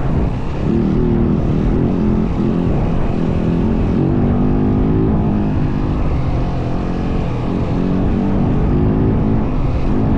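Yamaha WR450F single-cylinder four-stroke dirt bike engine running under throttle while riding. Its pitch rises and falls with throttle and gear changes, with short drops about half a second in, around the middle and again after about seven seconds.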